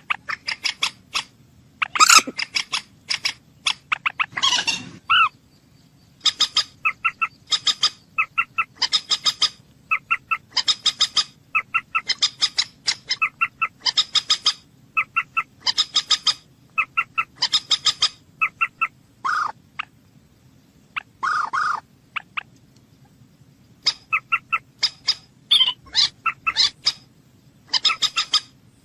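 Common moorhen calling: short, clipped notes in quick runs of two to five, repeated over and over, with a few longer, harsher calls mixed in.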